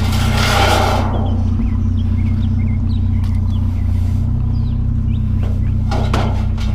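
Vehicle engine idling steadily with a low hum, while scrap is handled: a short scraping rush in the first second and metal clattering near the end.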